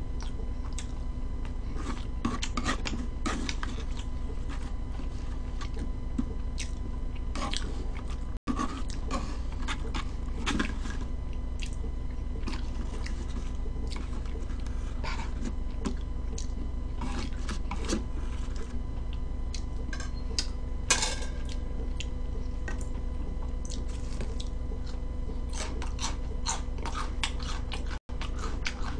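Close-miked chewing and mouth sounds, with irregular clicks and scrapes of a metal fork and knife against a plastic takeout tray, over a steady electrical hum.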